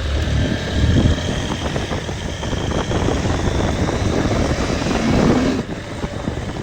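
Motorbike running, a steady low rumble with noise spread up through the higher range.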